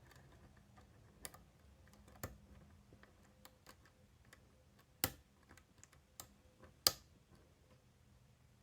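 Faint, scattered clicks of a lock pick working the wafers of a Miwa DS lock, with two sharper clicks about five and seven seconds in.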